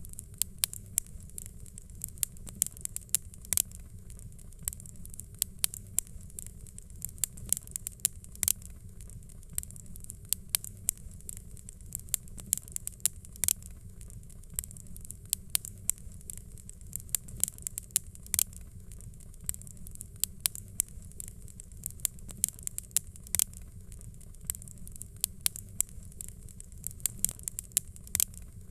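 A fire crackling: frequent, irregular sharp pops and snaps over a steady low rumble of flame.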